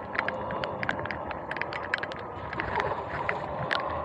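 Heavy rain ticking in quick, irregular taps on the camera, over the hiss of tyres on wet pavement, as a Sur-Ron X electric dirt bike coasts off the throttle. Its electric motor whine comes back faintly near the end.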